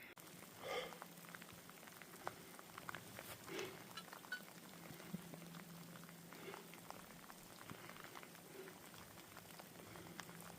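Faint light rain, heard as many small scattered drop ticks over a low, even hiss.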